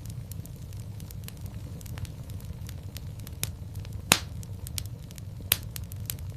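Wood fire crackling in a fireplace: a steady low rumble of flame under a scatter of small snaps, with two louder pops, one about four seconds in and another about a second and a half later.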